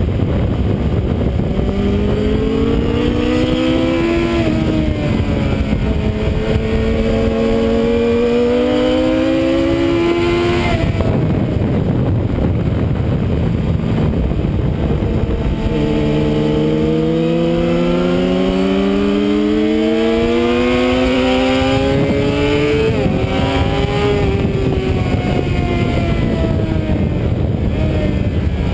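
Suzuki sport motorcycle engine under hard acceleration, heard onboard: its pitch climbs steadily and drops back at each upshift, with a few seconds off the throttle near the middle. Heavy wind rush lies under it throughout.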